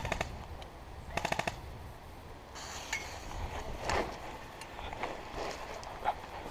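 Airsoft gun firing on full auto: two short bursts of rapid, evenly spaced shots, one at the start and another about a second in.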